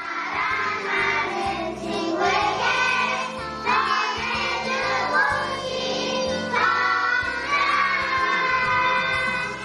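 A young child singing a song in phrases over instrumental backing music.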